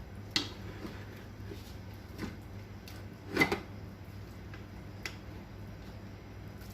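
A serving spoon knocking and scraping against a cooking pot a few times as chicken and rice are layered for biryani. The loudest knock comes about three and a half seconds in.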